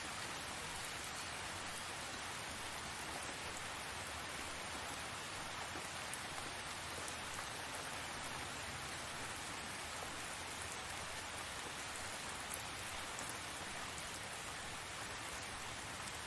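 Steady rain falling, an even hiss with a few sharper drop ticks landing now and then.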